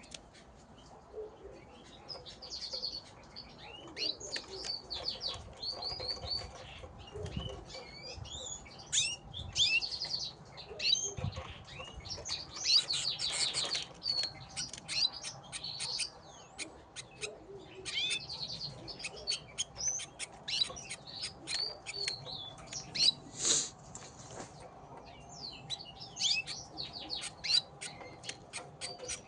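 Gloster canaries chirping and singing in quick, repeated trills, mixed with wing flutters and short sharp clicks.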